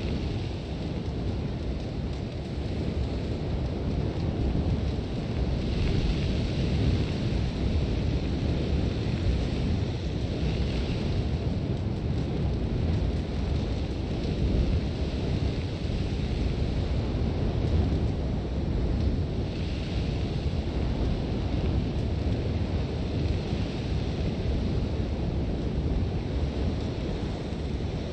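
Sandstorm wind blowing in a deep, steady rumble, with a harsher hiss of blown sand swelling up in gusts about six seconds in, around ten seconds and again around twenty seconds.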